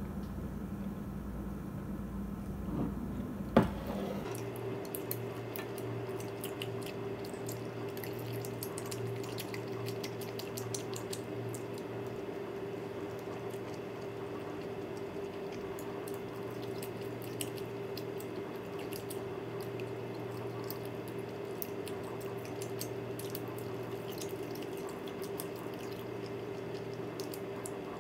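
Close-miked wet eating sounds: soft, broth-soaked oden being chewed, with many small moist clicks and squishes. About three and a half seconds in there is one sharp knock, a drinking glass being set down on the counter.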